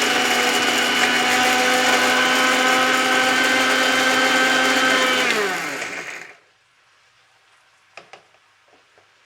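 Electric mixer grinder (mixie) running steadily as it grinds dry-roasted chillies and cashews into a coarse masala paste. It is switched off about five seconds in, and its whine falls in pitch as the motor winds down. Two light clicks follow near the end.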